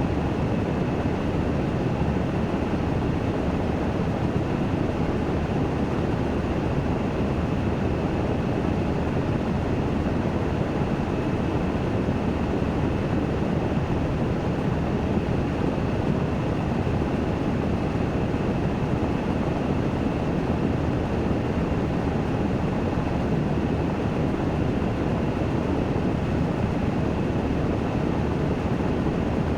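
Washing machine running its spin cycle, a steady whirring rush with a faint high whine above it.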